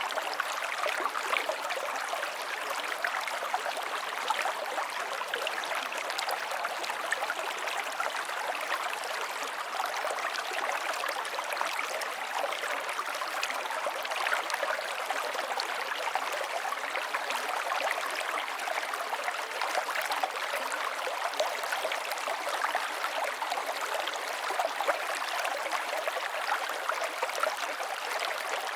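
River water flowing and splashing steadily, a dense even rush with small gurgles and no lulls.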